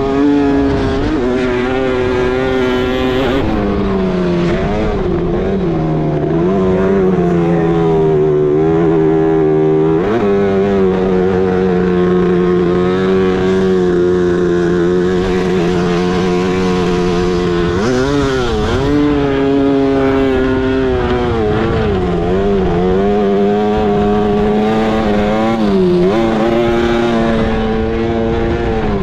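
Yamaha Banshee quad's two-stroke parallel-twin engine being ridden, its pitch rising and falling with the throttle, held steady for long stretches and dipping briefly several times, notably around 18 seconds in.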